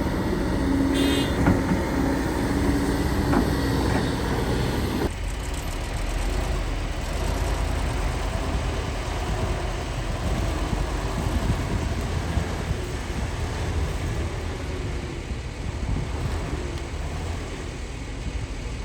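Heavy earth-moving machinery engine running steadily, with an abrupt change in the sound about five seconds in, then a continuous low rumble.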